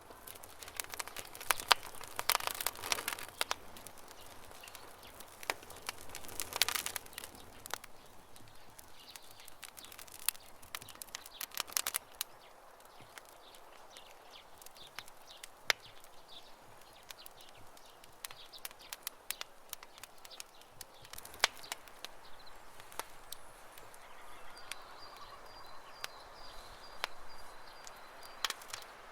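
Campfire of burning wood crackling: irregular sharp pops and snaps, with denser bursts of crackle a couple of seconds in and again around six seconds. A bird chirps faintly in the background, with a high repeated call near the end.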